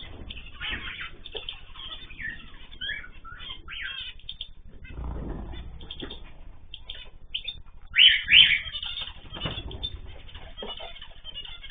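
Small cage birds chirping and calling in short, irregular bursts, with wings fluttering. Two loud, sharp calls come close together about eight seconds in.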